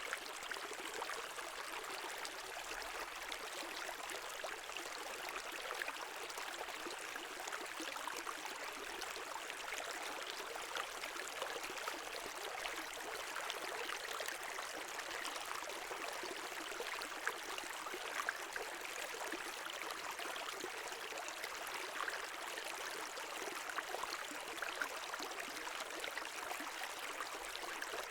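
Brook water running over stones: a steady babbling and splashing rush with fine gurgles.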